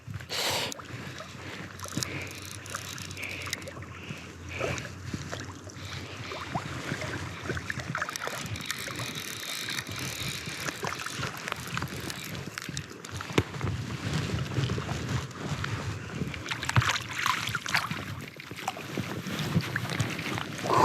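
Water splashing and sloshing, with small knocks and handling noise, while a big rainbow trout is played on a fly rod.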